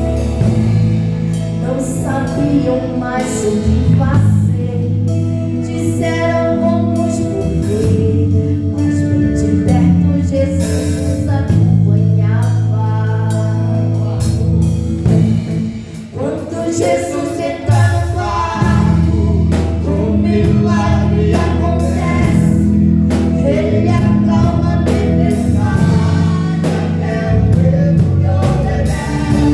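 Live gospel hymn: a woman sings over church band accompaniment of held bass and keyboard chords with a steady drum beat, easing off briefly about halfway through.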